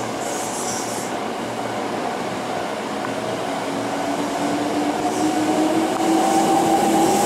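Hankyu commuter train pulling away from a station platform. Its traction motors whine in two tones that climb steadily in pitch as it accelerates, over the rumble of the cars, growing louder toward the end.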